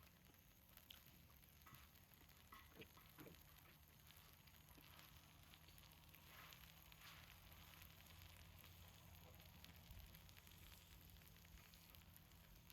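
Faint sizzling of a seafood pancake frying in oil on a cauldron lid over a wood fire, with a few small clicks in the first few seconds.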